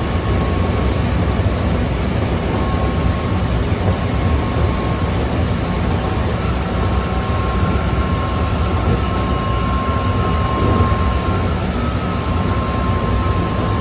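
Keikyu 600 series electric train running at steady speed, heard inside the car: a continuous low rumble of wheels on rail with a thin, steady high whine from the traction motors that fades in and out, holding its pitch.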